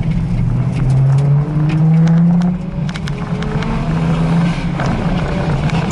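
Drift car engines running hard on a race circuit, a steady low drone with revs rising and falling, and scattered sharp cracks over it.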